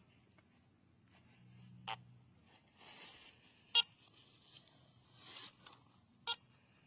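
Faint handling noise: soft rubbing and scraping, with three short, sharp clicks spread a couple of seconds apart.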